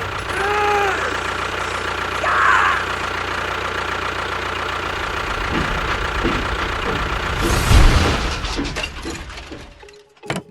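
A small motor running steadily with a low hum, with short pitched sounds about half a second and two and a half seconds in. A louder noisy burst comes about seven and a half seconds in, then the sound fades and cuts off shortly before the end.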